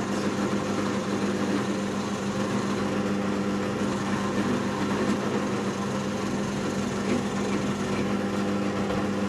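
Electric drill running steadily as it bores a hole through the knife's handle scales and tang, with a constant motor hum that cuts off right at the end. The bit cuts without catching and spinning the workpiece.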